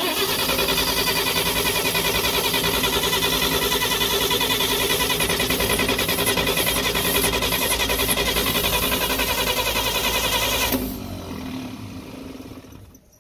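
1950 Chevrolet straight-six engine cranking over on the starter for its first start after sitting for twenty years, primed with fuel poured into the carburetor. It comes in suddenly and runs with an even pulse for about eleven seconds, then drops off abruptly and fades away.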